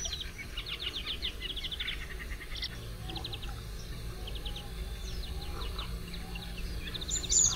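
Songbirds singing: short, rapid trills repeated every second or so, several overlapping, over a steady low background rumble.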